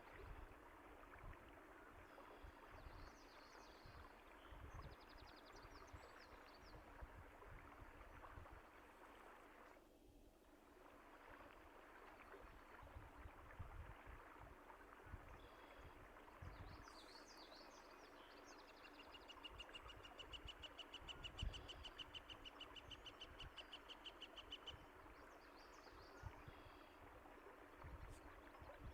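Faint, steady rush of flowing water with songbirds chirping over it. About two-thirds of the way through, one bird gives a rapid trill that lasts about five seconds. Occasional low thumps sound under the water.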